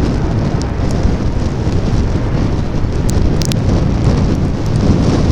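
Wind buffeting the microphone in a steady low rumble, with rain falling and a few sharp ticks of drops about three seconds in.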